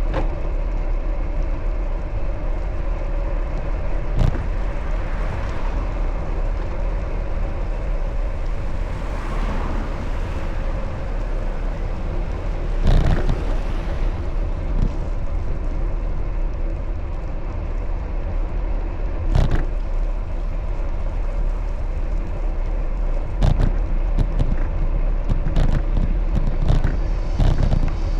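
Steady low rumble of riding a bicycle on city streets, with a car passing about ten seconds in and a few sharp knocks from bumps in the road.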